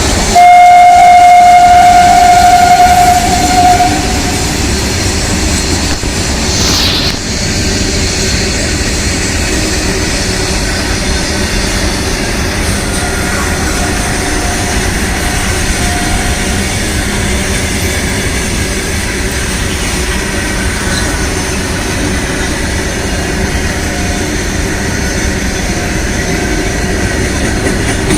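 Indian Railways train sounding its horn in one long steady blast of about four seconds, followed by the continuous loud rumble and clatter of the train running past on the rails.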